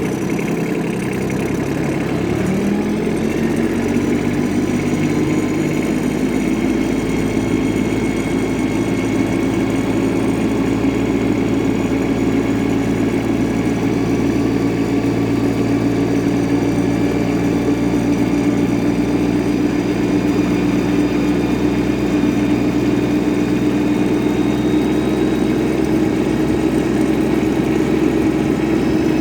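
Yanmar AF15 compact tractor's diesel engine running; about two seconds in its speed rises and then holds steady.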